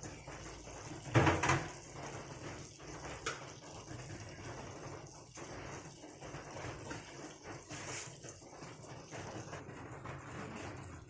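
Kitchen cookware noise: a loud clatter about a second in and a lighter knock a couple of seconds later, over a steady hiss.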